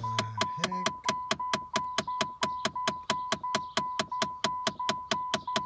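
Rapid, even clicking from behind the dashboard of a 2013 Chrysler 200, about five clicks a second, with a steady high tone running underneath. The owner takes it for a worn HVAC (air-conditioning) actuator with plastic gears clicking.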